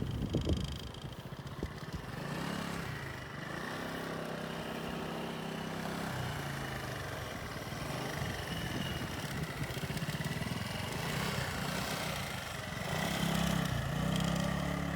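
A motorcycle engine running at low speed through a slow cone weave, its pitch rising and falling with the throttle. It grows louder around two to three seconds in and again near the end.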